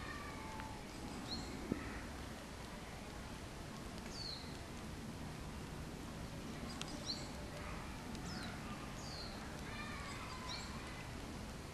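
Outdoor ambience: a small bird gives several short, falling chirps, a second or two apart, over steady background noise, with one sharp click about two seconds in.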